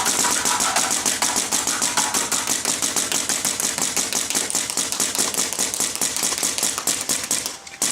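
Dye DAM paintball marker firing a long, rapid string of shots, regular round paintballs fed from a Rotor loader. The firing stops near the end.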